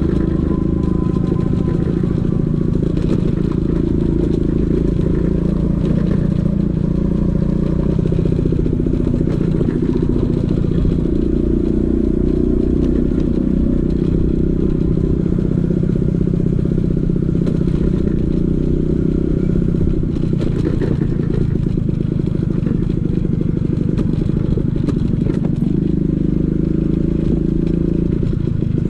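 Vespa PX 150's two-stroke single-cylinder engine running through a DRC Victory racing exhaust, steady in level with small shifts in pitch.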